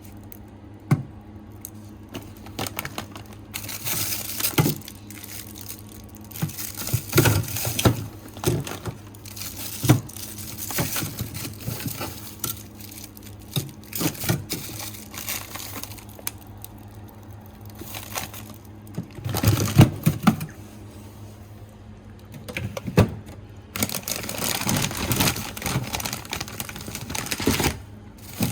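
Plastic food packaging crinkling and rustling, with irregular knocks and clicks of packets and containers being moved about, the busiest cluster of knocks about two-thirds of the way in. A steady low hum runs underneath.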